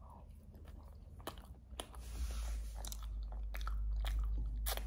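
A person chewing potato wedges topped with melted cheese and bacon, with a string of sharp mouth clicks. A low rumble comes in about two seconds in.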